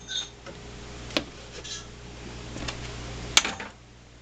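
Two sharp clicks about two seconds apart, the second louder, over a faint steady hum.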